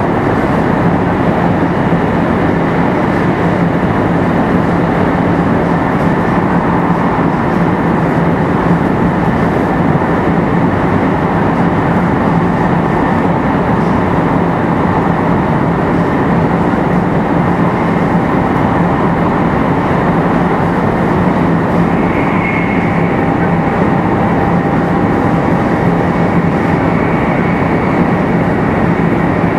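500 series Shinkansen car running steadily on a Toshiba GTO VVVF inverter drive: an even rush of wheel and air noise with a steady low hum and a faint high tone that briefly brightens about two-thirds of the way through.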